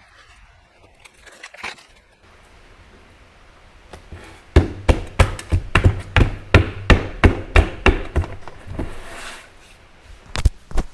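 A quick run of about a dozen thuds, about three a second, from hands pressing and patting a self-adhesive sandpaper sheet down flat onto a granite slab on a workbench. A soft rub follows, then two more knocks near the end.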